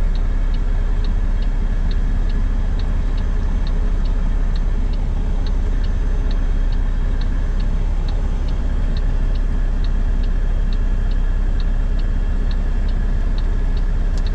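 Turn-signal indicator ticking steadily inside a truck's cab, about one and a half clicks a second, over the constant low rumble of the engine and road.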